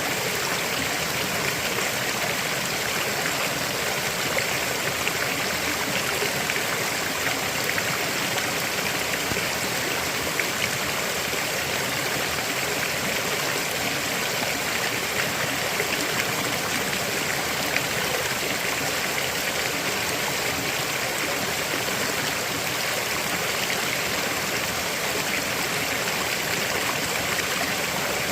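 River water flowing over rocks: a steady rushing and babbling that holds the same level throughout.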